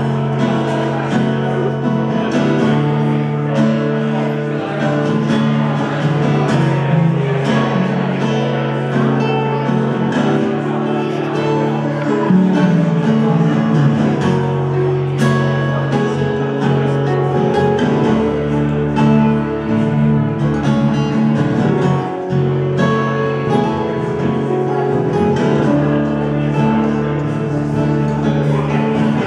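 Live band playing the instrumental opening of a song, guitar to the fore; a deep bass line comes in about two-thirds of the way through.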